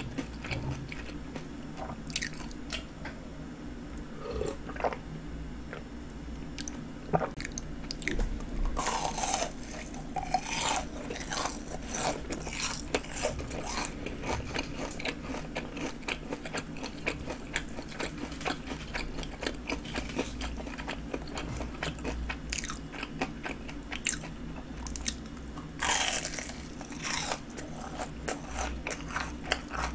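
Crunching and chewing of fried jumbo shrimp with a crisp breaded coating: a steady run of crisp bites and chews, loudest about nine to thirteen seconds in and again about twenty-six seconds in.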